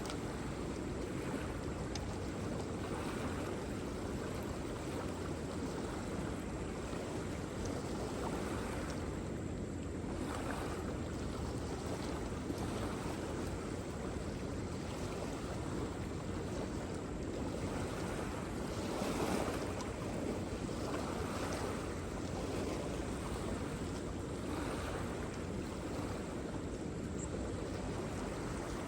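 Waterfall: a steady rush of falling water that swells and eases gently, a little louder for a moment about nineteen seconds in.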